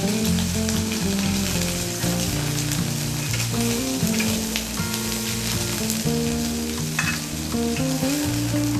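Food sizzling and spitting on a charcoal shichirin grill: a steady hiss with scattered sharp pops. Background music with held notes plays over it.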